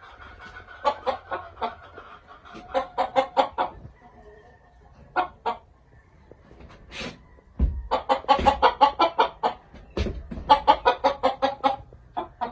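Gamefowl clucking in four quick runs of short, rapid clucks, with a couple of dull low thumps in the second half.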